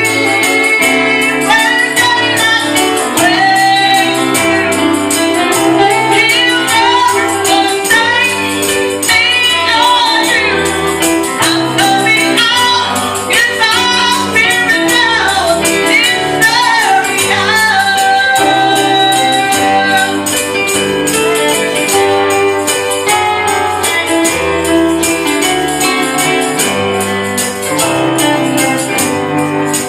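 Gospel song in church: voices singing over a band with a bass line, and a tambourine shaken in a steady beat.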